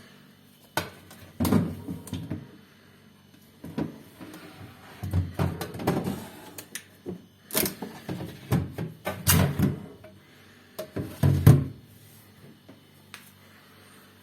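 A refrigerator being handled: irregular bursts of clicks, knocks and dull thumps, like doors, shelves or drawers being moved. The loudest thump comes about three-quarters of the way through.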